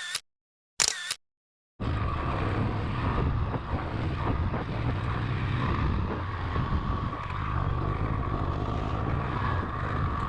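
Two camera-shutter clicks in the first second. From about two seconds in, a motorcycle runs at a steady speed with wind rushing over the microphone.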